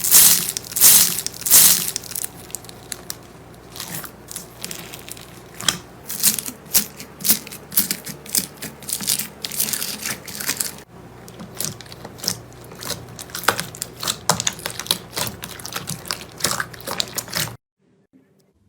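Slime being squeezed and pressed by hand, giving dense crackling and popping clicks, loudest in the first two seconds. The crackling breaks off abruptly near the end.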